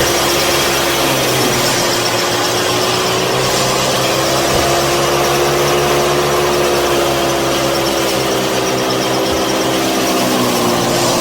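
A small motor running steadily with a whining hum, its pitch dipping and recovering slightly a little after the start and again near the end.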